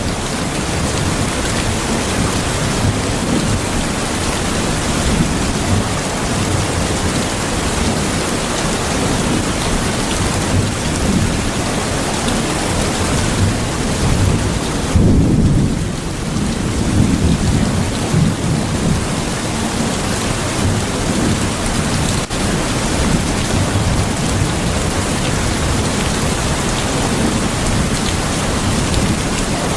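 Steady heavy rain with a low rumbling underneath, which swells about halfway through.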